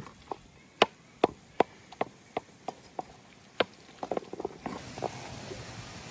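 A series of sharp knocks, about two or three a second and uneven, with a quicker cluster about four seconds in, then a steady low hum near the end.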